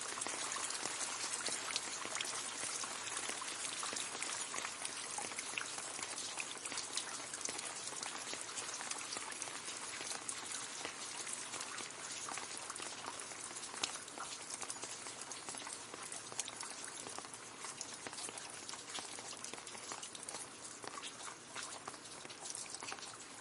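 Gentle rain falling on leaves: a steady dense patter of many small drop ticks, easing slightly toward the end.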